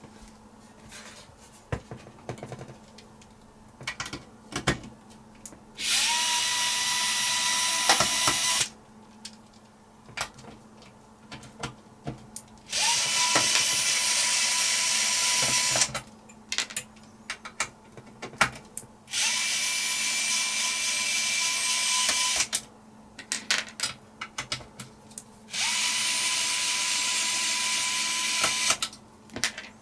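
Handheld electric drill-driver running in four bursts of about three seconds each, the motor whine rising to a steady pitch as each starts. Clicks and knocks of handled parts fall between the bursts.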